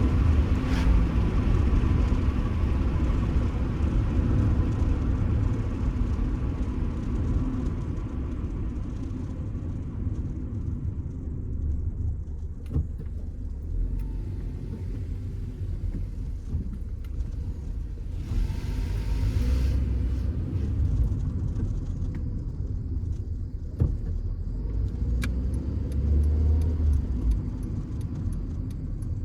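Stock Honda Civic driving, heard from inside the cabin: a steady engine hum and road rumble. The phone mount rattles, with scattered clicks, and there is a brief hiss about eighteen seconds in.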